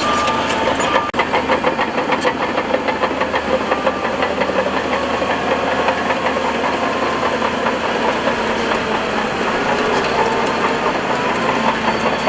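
Heavy earthmoving machine's engine running steadily, with a fast clattering rattle in the first few seconds.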